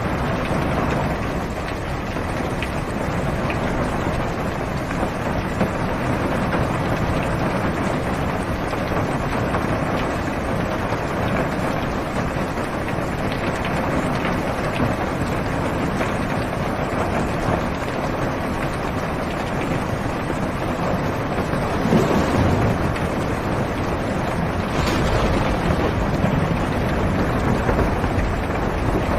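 Heavy rain drumming steadily on a car's roof and windows, heard from inside the car, with a brief louder swell about three quarters of the way through.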